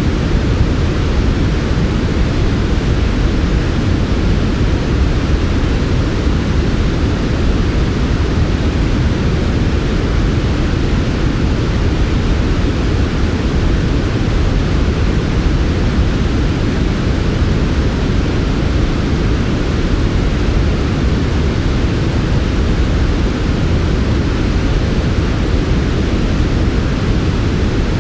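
Steady, smooth synthetic 'white noise' for sleep, weighted toward the low end so it sounds more like a soft even rumble-hiss than a bright hiss; it does not change.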